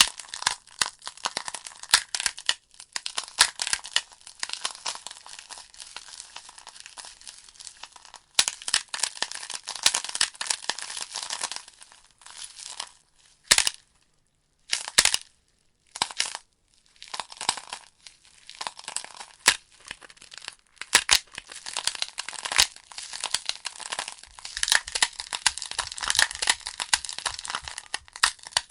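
Logs burning in a fireplace, crackling and popping with a dense run of sharp snaps over a soft hiss. About halfway through the crackling thins to a few isolated pops with near-silent gaps, then picks up densely again.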